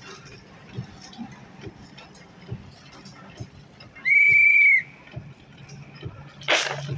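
Road construction site sounds: a low steady machine hum with scattered knocks, and one short, high-pitched tone lasting under a second about four seconds in, the loudest sound. A short hiss near the end.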